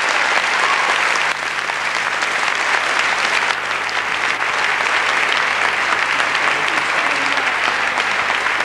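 Theatre audience applauding steadily, with a slight dip in level about a second in.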